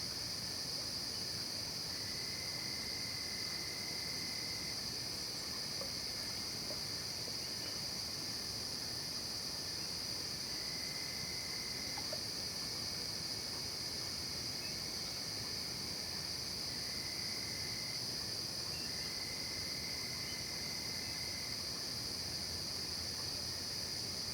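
Night insect chorus of crickets, a steady high-pitched shrill. A second, lower trill starts and stops several times, each run lasting one to three seconds.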